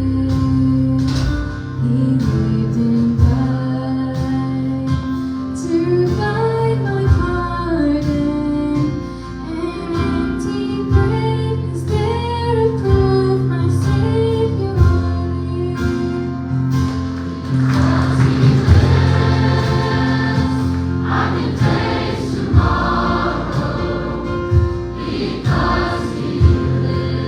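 Gospel choir singing with a live band, steady bass notes and regular drum hits under the voices.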